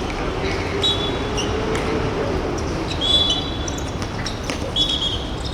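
Indoor court game sounds: sneakers squeak sharply on the hall floor three times, among scattered knocks of feet and ball and a steady hum of the hall.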